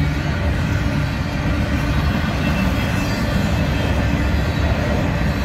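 Union Pacific freight train's empty intermodal well cars rolling past, their wheels on the rail making a loud, steady rumble.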